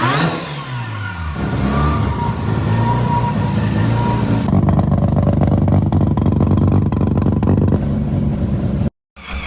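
Mazda 12A two-rotor Wankel engine being revved, its pitch swinging up and down, then held at steady high revs from about halfway. The sound cuts out briefly near the end.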